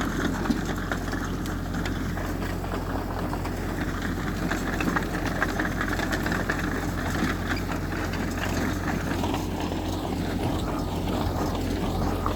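Heavy diesel earthmoving machine engine running steadily, a low even hum with light clatter over it.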